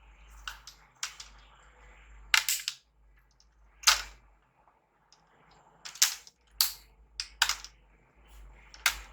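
The plastic locking clips of a laptop's screen bezel snap loose one after another as the bezel is pried off. There are about nine sharp clicks, spaced irregularly, some in quick pairs.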